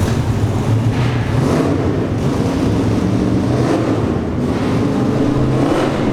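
V8 muscle car running at low revs with a loud exhaust, a deep steady note with small shifts as the throttle is worked.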